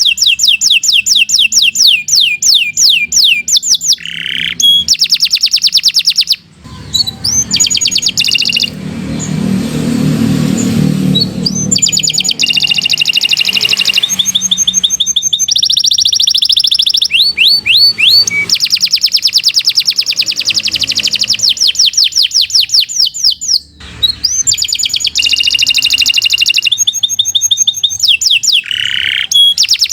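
Domestic canary singing a long, continuous song of fast repeated trills, each phrase a quick run of the same rising-and-falling note before switching to the next, with a lower, rougher stretch about a third of the way in.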